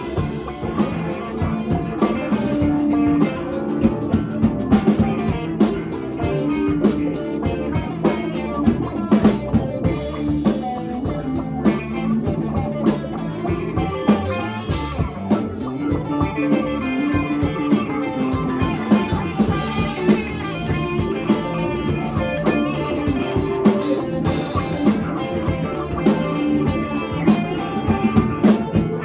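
Live rock band playing an instrumental passage with electric guitar and drum kit, a steady beat throughout.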